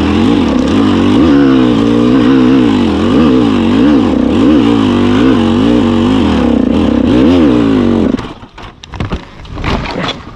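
A 125 cc enduro motorcycle engine revving, its pitch rising and falling over and over as the throttle is worked, for about eight seconds, then cutting off. Wind noise and a few faint knocks follow.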